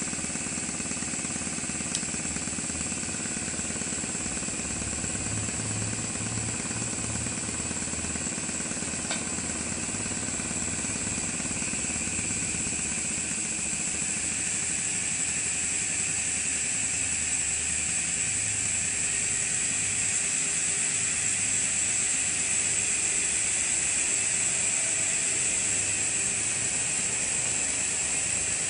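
Maxwell Hemmens model colliery steam engine running fast on compressed air: a quick, even beat from the engine over a steady hiss of air. The hiss grows a little louder from about halfway through.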